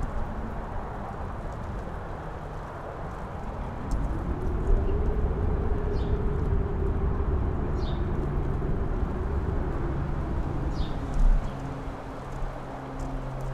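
Wind gusting over a mountain top. A stronger gust builds about four seconds in, carrying a howling tone that rises and then falls away, with a low buffet on the microphone near the end before the wind eases.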